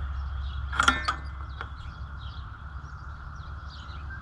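A sharp click with a brief squeak about a second in, then a few lighter ticks, over a steady low rumble. Faint bird chirps come in over the second half.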